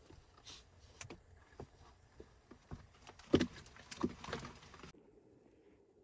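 Scattered, irregular knocks and crunches, the loudest a little past the middle. Near the end they give way to a quieter, duller background.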